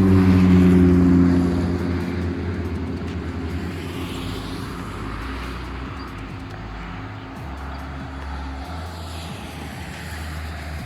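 Road traffic passing: a heavy vehicle's engine hum that starts suddenly and fades over several seconds, then the tyre noise of more vehicles going by.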